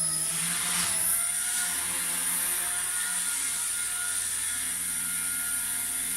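XK K110 micro RC helicopter's electric motors and rotors whirring in flight: a steady high-pitched whine over a hum of lower tones, with a brief bump in pitch about a second in.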